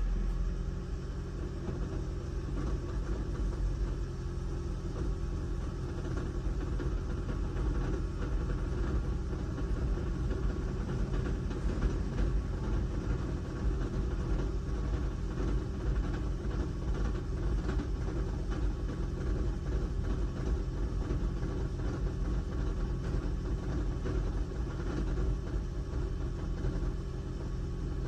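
Toyota Prius petrol engine running steadily with an abnormal noise that is put down to its EGR system and linked to engine misfires.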